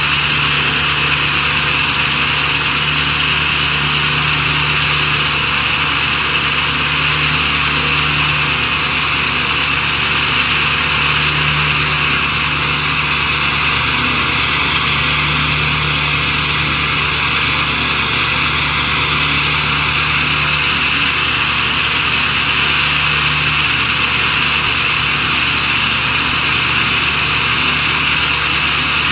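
Ford 7.3-litre Power Stroke turbodiesel V8 of a 2000 E350 running steadily at idle, warming up after a cold start.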